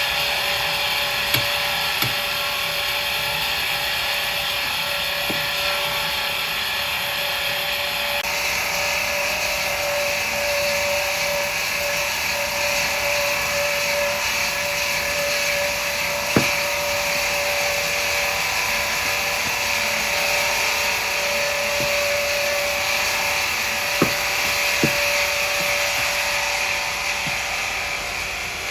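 Sawmill saw running steadily through black teak wood, a continuous machine noise with a held tone. The sound shifts a little about a third of the way in, and a few sharp knocks break in later.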